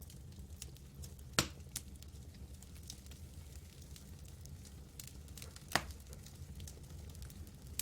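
Campfire burning with scattered small crackles and two louder pops, one about a second and a half in and one near six seconds, over a low steady rumble.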